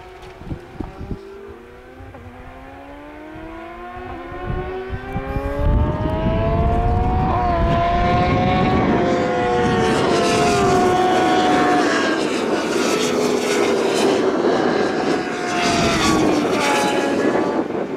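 Several road-racing motorcycles at high revs approaching and passing, their engine notes rising as they come nearer. It is loud from about six seconds in, with more than one bike's note heard at once.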